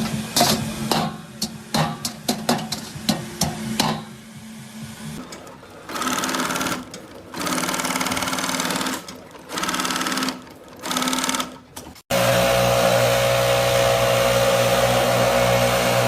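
A run of sharp clicks and taps. Then a small machine runs in short bursts, stopping and starting several times, before a louder, steady machine hum takes over after an abrupt cut about twelve seconds in.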